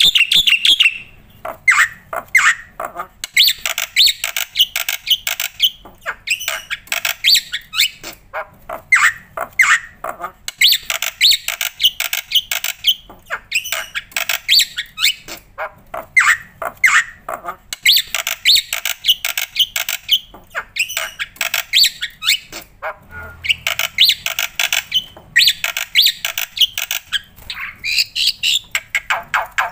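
Black-winged starling (jalak putih) singing a long, busy song: rapid runs of harsh chattering notes mixed with short whistles, in phrases of a few seconds separated by brief pauses.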